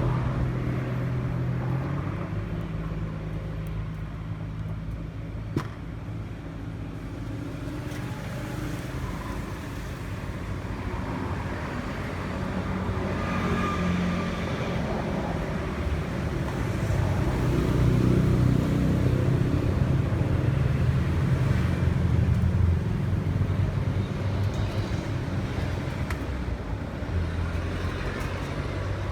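Car engine running, with its pitch shifting slowly over time, and a single sharp click about five seconds in.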